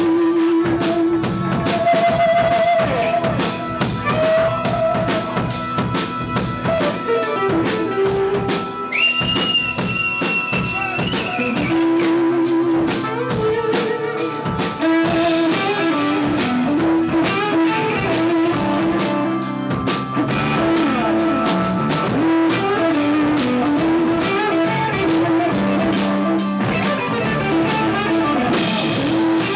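Band playing music: a drum kit keeps a steady beat under guitar.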